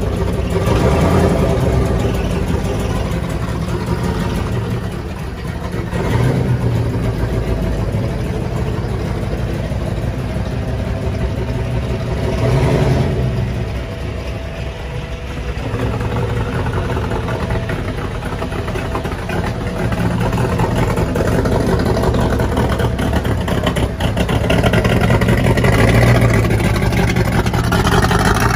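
Holden VK Commodore Brock HDT replica's engine running steadily, blipped and revved up several times, with the biggest rises about a second in, around six and thirteen seconds in, and again near the end.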